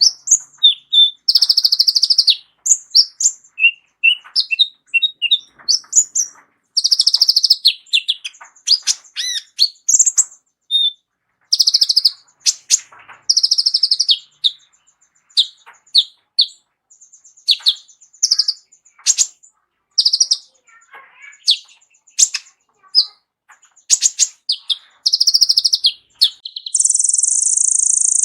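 Kolibri ninja sunbird singing a long, varied song of fast high chirps, short trills and slurred whistles packed with imitated phrases, ending in a sustained buzzy trill.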